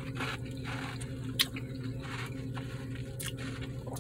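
Close-up crunching and chewing of a frozen ice pop, in a series of short bites with one sharp crack about a second and a half in.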